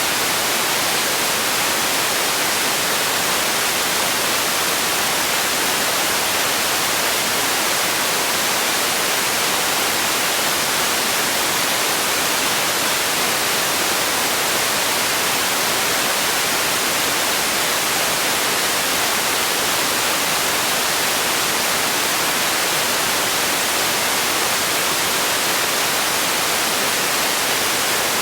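Continuous white noise: an even, steady hiss, bright and strong in the highs with little low end, unchanging throughout.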